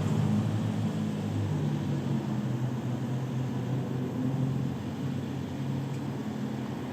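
Car engine and road noise heard from inside the cabin while driving: a low engine drone whose pitch shifts in steps, starting abruptly and easing slightly in loudness.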